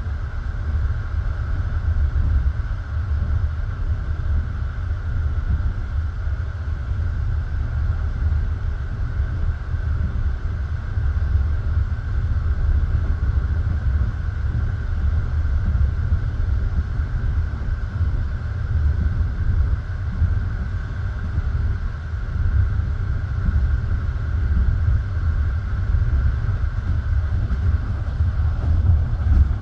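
Passenger train running, heard from on board a carriage: a steady low rumble of wheels on the rails, with a faint steady hum above it.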